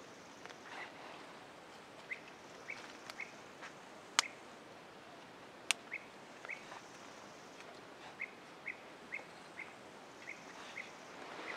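A bird calling with short, identical chirps, repeated in loose runs about two a second, over a faint outdoor hush. Two sharp cracks stand out, about four and six seconds in.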